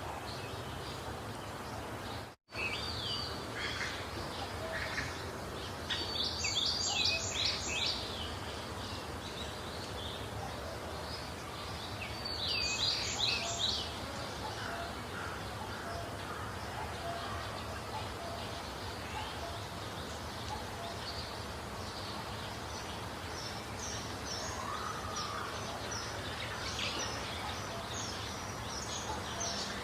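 Wild birds singing over a steady background hiss. Two bursts of rapid repeated high notes come about six and twelve seconds in, and scattered short chirps follow in the second half. The sound drops out completely for an instant about two and a half seconds in.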